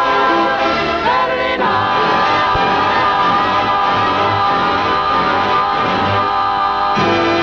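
Big-band swing music with a vocal group singing the song's last phrase, then holding a long, steady final chord together with the band; the chord shifts to a new one near the end.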